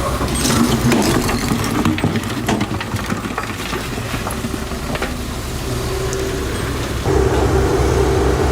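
A heavy machine's engine running, with scattered knocks and clatter over the first few seconds. About seven seconds in, the engine gets louder and steadier, as if given more throttle.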